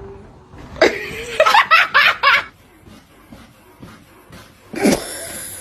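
A person laughing: a quick run of about five 'ha' bursts about a second in, then one shorter burst near the end.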